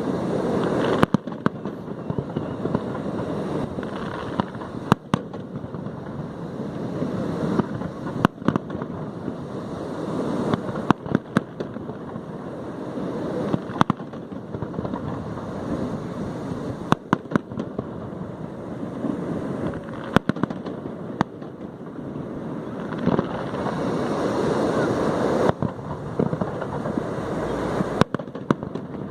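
Aerial fireworks display: sharp shell bangs at irregular intervals, usually a second or two apart and sometimes in quick clusters, over a continuous rushing, crackling background.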